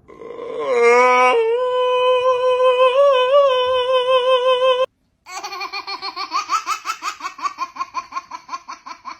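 A voice holds a long, high, steady note that glides up into it at the start. The note cuts off abruptly, and then comes rapid rhythmic laughter, about four pulses a second, fading toward the end.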